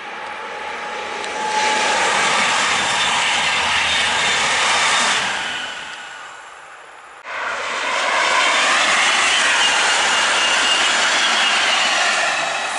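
A Thalys high-speed train passing at speed: a loud rushing noise of wheels and air that swells about a second and a half in and fades after about five seconds. Then, after an abrupt cut, a second high-speed train rushes past, loud until it fades near the end.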